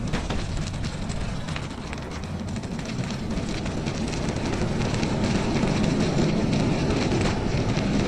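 Wind rushing over the microphone and bicycle tyres rolling over snow during a ride, with scattered small clicks; it grows louder from about four seconds in.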